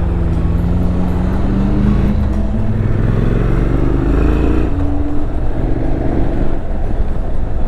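Motorcycle engine pulling under acceleration with rushing wind. The pitch climbs, drops at a gear change about two and a half seconds in, climbs again, then drops and evens out.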